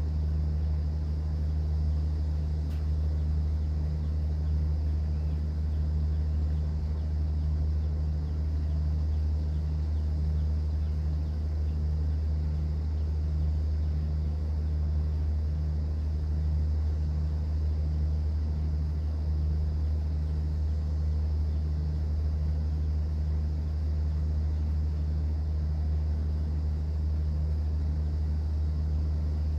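Cruise boat's engine droning steadily: a deep, unchanging hum with a fainter pulsing tone above it.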